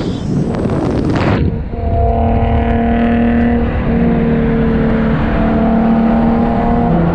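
A car driving: a loud rushing noise for the first second and a half, then a steady engine drone at constant speed.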